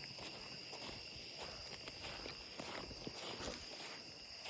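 Steady insect chorus, an even high-pitched trill holding two tones, over faint scattered knocks.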